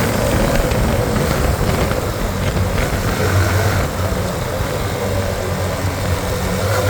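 A Hero Xtreme 125R's single-cylinder 125 cc engine running at a steady drone while the motorcycle is ridden, under a wash of wind noise on the microphone.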